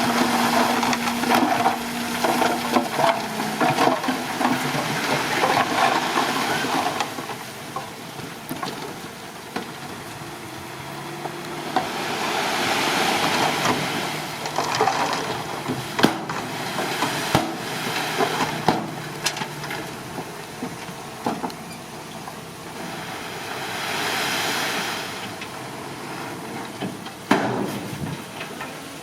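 Bulldozer working rocky soil: a steady rushing hiss of earth and rock being pushed, with scattered sharp knocks and clicks. The sound swells twice, about halfway through and again near the end.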